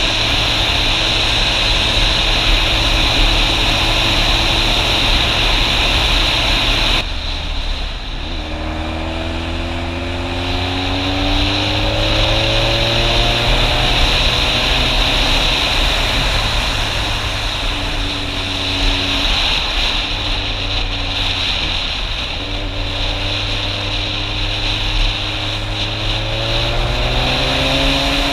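Motorcycle engine under way, running steadily with a loud hiss until that noise cuts off abruptly about seven seconds in. The engine then accelerates in rising sweeps of pitch, dropping back between them as it shifts up through the gears.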